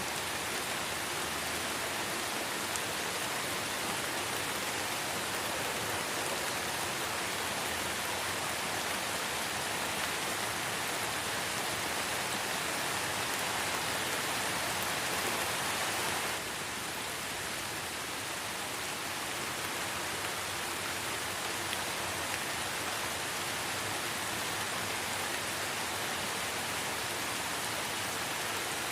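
Light rain falling steadily: an even hiss of many small drops. About halfway through, the sound shifts abruptly to slightly quieter and duller.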